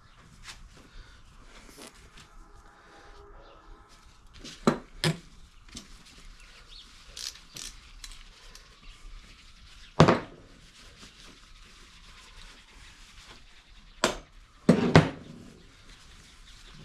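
Tools and metal parts being handled and set down on a workshop surface: a handful of sharp clunks and clatters a few seconds apart, the loudest about ten seconds in.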